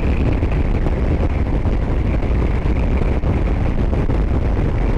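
Wind rushing over the microphone with the steady drone of a Harley-Davidson Road Glide's V-twin riding at highway speed.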